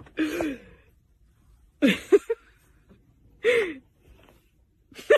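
Short voiced cries, each falling in pitch: three of them about a second and a half apart, then a quick run of short calls near the end.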